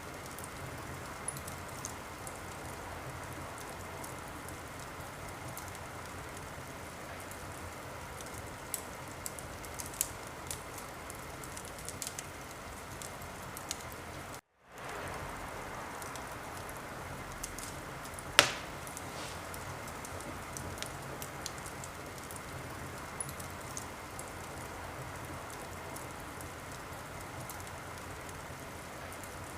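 Wood fire burning in a fireplace: a steady hiss dotted with small sharp crackles, and one loud pop about two-thirds of the way through. The sound cuts out for a moment about halfway.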